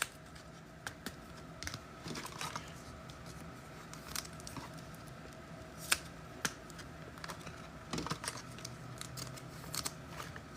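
Trading cards and pack wrappers being handled: scattered light clicks, snaps and rustles of cards being flipped and packs being opened, over a faint steady hum.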